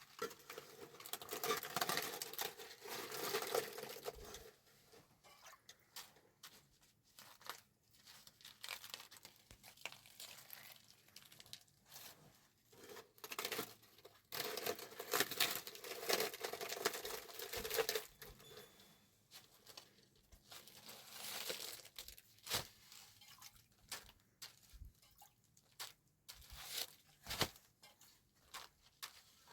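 Crinkling, rustling handling noise in several stretches, with many small sharp clicks and taps between them.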